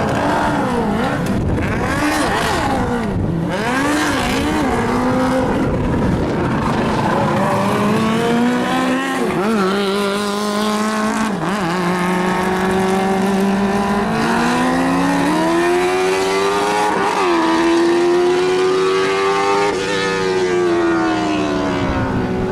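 Open-wheel race car engines revving hard, several at once at first, then one engine's pitch climbing steadily as it accelerates, dipping sharply for a gear change or lift and falling away near the end.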